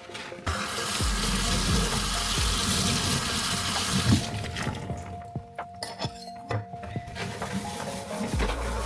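Kitchen tap running into the sink for about three and a half seconds, then shut off, followed by a few light clinks and knocks.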